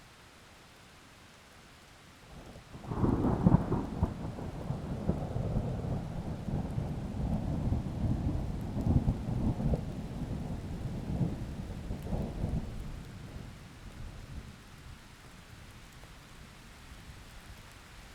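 A sudden loud, low rumble of the typhoon starts about three seconds in and dies away over roughly ten seconds, over a faint steady hiss of heavy rain.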